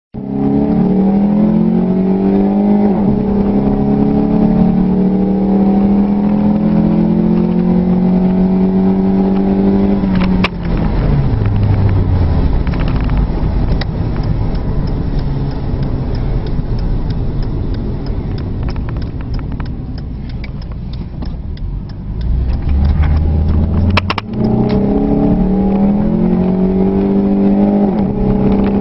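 2003 Dodge Neon SXT's 2.0-litre four-cylinder engine, breathing through a cold air intake and aftermarket exhaust, held at high revs with a steady drone. About a third of the way in the revs fall away to a low rumble, and near the end the engine is brought back up to the same steady high-rev drone.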